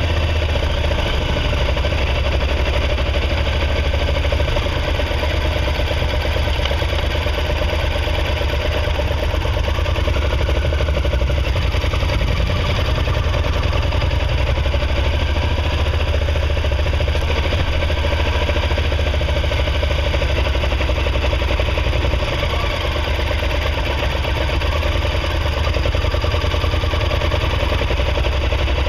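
On-board sound of a motorcycle engine running steadily at low road speed, with an even low pulsing and no big rise or fall in revs.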